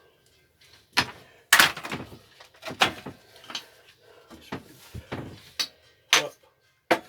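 A series of irregular knocks and clunks, about nine of them, the loudest about a second and a half in, from tools and engine parts being handled on a workbench.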